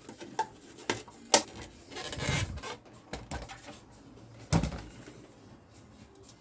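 Hard objects being handled and set down: several sharp knocks and clacks, the loudest near the start and another about four and a half seconds in, with a short scraping or rubbing sound about two seconds in.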